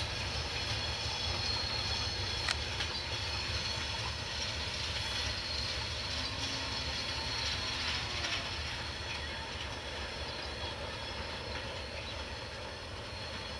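Passenger coaches of an intercity train running away over the rails on a curve: a steady rumble of wheels on track with a thin high squeal from the wheels, slowly fading as the train recedes.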